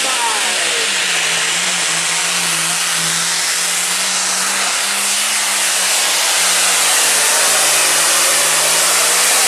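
Limited pro stock pulling tractor's turbocharged diesel engine running flat out under load, a steady loud drone with a heavy rushing hiss over it. It grows a little louder over the second half.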